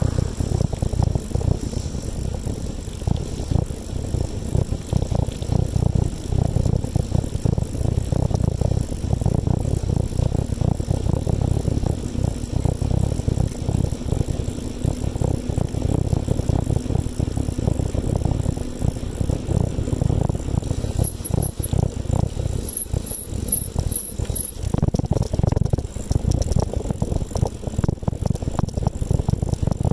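A bicycle rattling as it is ridden over the road, over a steady low rumble. About two-thirds of the way through, a short run of high, brief chirps sounds: three quick ones, then five more spaced out.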